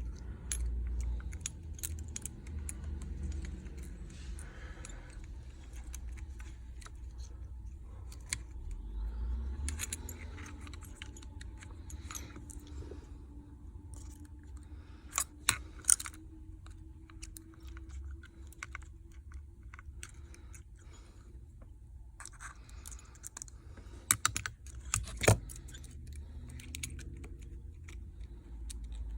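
Scattered light clicks and taps of small tools and iPhone parts being handled during a logic board swap, with a few sharper clicks about halfway through and again near the end, over a low steady hum.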